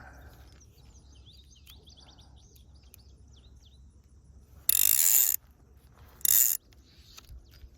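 Fly reel's click-and-pawl drag ratcheting as line is pulled off it, in two loud pulls: a longer one about halfway through and a shorter one a second and a half later. Faint bird chirps come before them.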